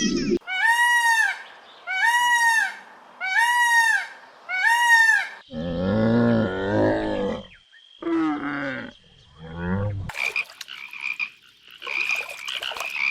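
A run of different animal calls. First come four identical rising-then-falling calls, evenly spaced. Then two deeper, longer calls follow, and near the end a busy pulsing chorus begins.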